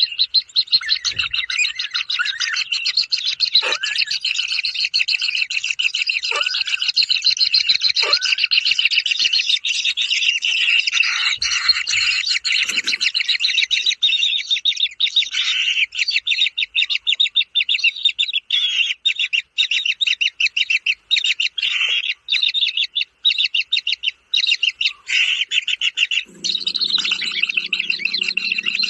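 Kingfisher chick calling with a rapid, unbroken stream of high chirps that goes on, with a few short breaks, throughout. A low steady hum joins near the end.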